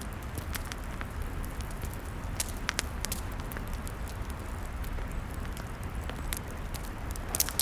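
Log fire crackling, with sharp irregular pops scattered over a steady low rumble and a quick cluster of pops near the end.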